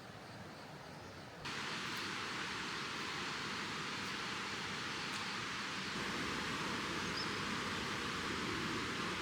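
Steady hiss of water, rain or rushing river, that cuts in suddenly about a second and a half in over a quieter background.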